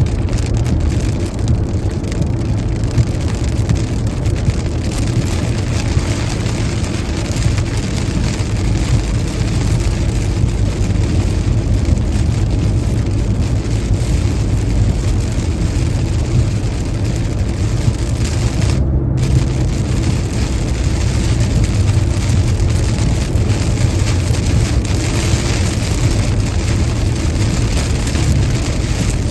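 A car driving on a wet interstate in rain: a steady low rumble of tyres and engine under an even hiss of rain and road spray. The hiss drops out briefly about two-thirds of the way through.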